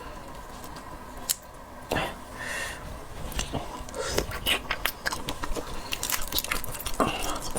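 Close-miked biting and chewing of seafood, with sharp clicks and crunches that come thicker in the second half.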